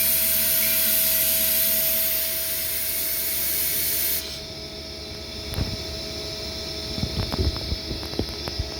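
Mazak QTN200M CNC lathe running with a loud, steady hiss and a steady whine. The hiss cuts off suddenly about four seconds in, followed by scattered knocks and clicks from the machine.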